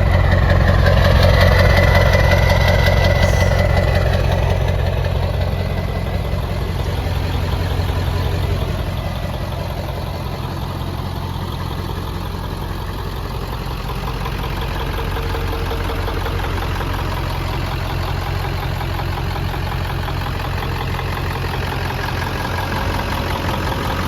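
Ford 7.3 Powerstroke V8 turbodiesel in a 2003 Super Duty idling steadily, running on newly installed 180cc injectors; a little louder for the first several seconds.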